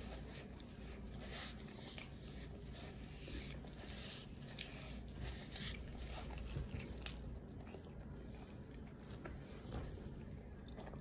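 Faint chewing and mouth sounds of a person eating close to the microphone, with scattered small clicks.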